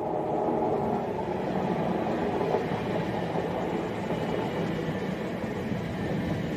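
Class 350 Desiro electric multiple unit running through the station without stopping, a steady noise of the train on the track.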